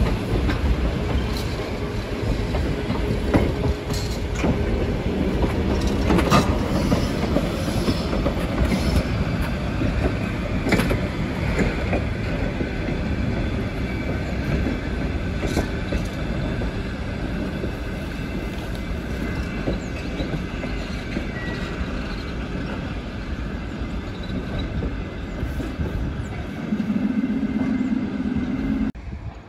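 ER2 electric trains rolling through depot tracks: a steady rumble of wheels on rail with repeated clicks as they cross joints and points, and a thin wheel squeal at times. Near the end a low humming tone comes in for a couple of seconds, then the sound cuts off suddenly.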